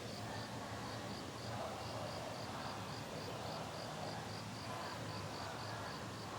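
An insect chirping in a steady, even rhythm of short high pulses, about four a second, over a soft background hiss.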